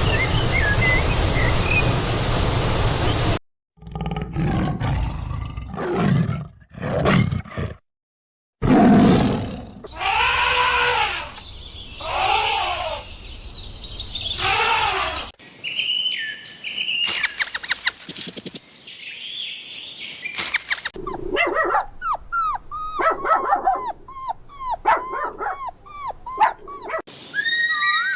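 Farm animals calling in a series of short separate recordings: after a steady rushing noise, there are repeated drawn-out calls, then a run of quick short calls near the end.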